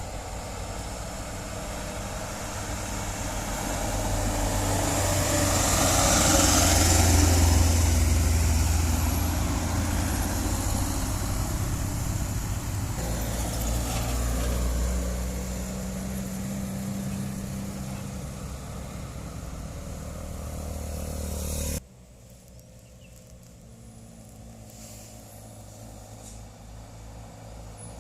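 Heavy truck engine passing on a road, growing louder to a peak about seven seconds in and then fading slowly. It cuts off suddenly about 22 seconds in, leaving quieter traffic noise.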